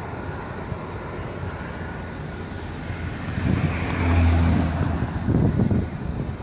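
A road vehicle passes close by, swelling to its loudest a little past the middle and then fading, over a steady background rumble.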